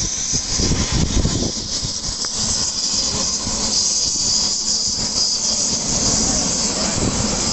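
Helicopter running close by: a steady high turbine hiss over a churning low rotor rumble.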